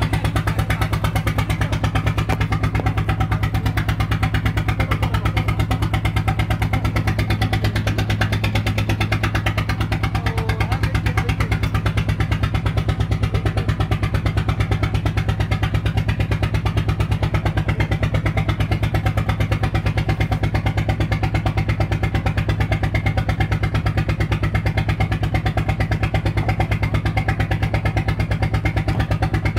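Motorboat engine running steadily under way, an even, unchanging engine note with a strong low hum.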